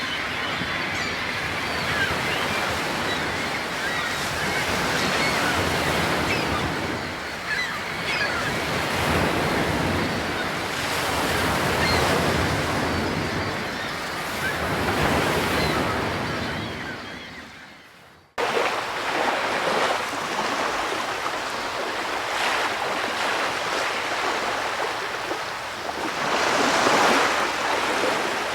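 Ocean surf: waves washing in, swelling and ebbing every few seconds. About 18 seconds in, the sound fades out and then cuts straight back in.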